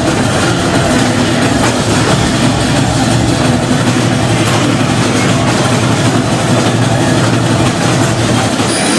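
Vacuum cleaner running steadily: a loud, even motor rush with a low hum under it.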